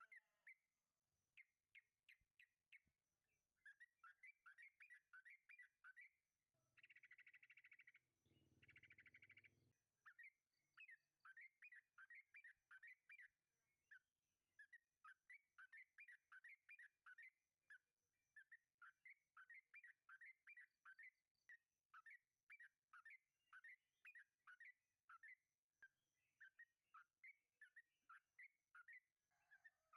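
Yellow-vented bulbul (trucukan) singing its long rapid warbling song: fast runs of short downward-sliding whistled notes, repeated in bursts of a few seconds. The song is broken about seven to nine seconds in by two short harsh buzzing noises.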